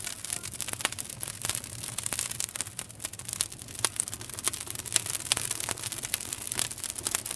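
Wood campfire burning, crackling densely with many sharp pops.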